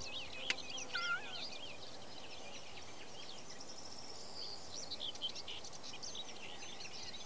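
Several small birds chirping and singing over a steady outdoor hiss, with a single sharp click about half a second in.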